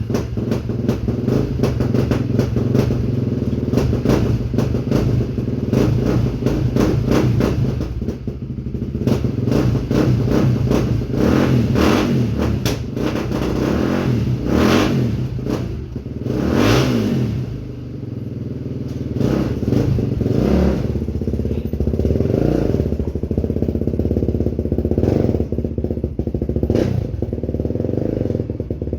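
Racing quad (ATV) engine running and revving repeatedly, its pitch rising and falling over and over, with some clatter.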